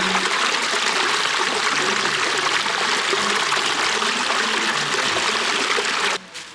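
Steady rushing of a flowing stream, with soft background music underneath. The water sound cuts off suddenly near the end, leaving only the music.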